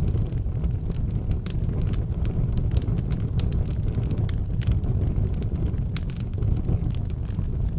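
Wood fire burning in an outdoor fireplace: a steady low rumble of flames with scattered sharp crackles and pops.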